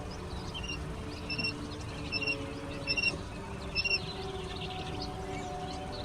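Chicks peeping: five short, high cheeps about a second apart, over a steady low drone.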